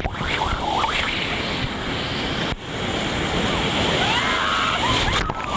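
White-water river rapids rushing loudly and steadily around a raft, with faint shouts from the rafters. The sound drops out briefly about halfway through.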